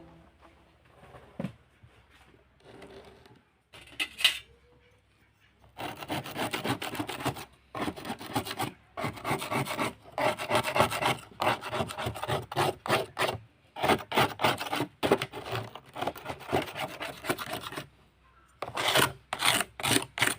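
Rapid back-and-forth rubbing strokes against a hard surface, several a second, in runs of a few seconds with short pauses, after a few scattered light knocks.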